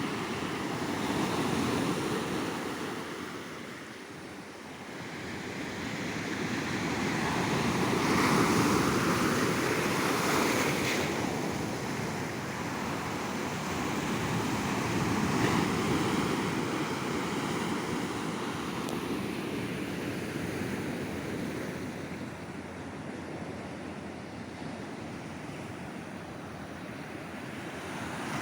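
Ocean surf on a beach: waves breaking and washing up the shore in a continuous rush, swelling and easing in slow surges about seven seconds apart.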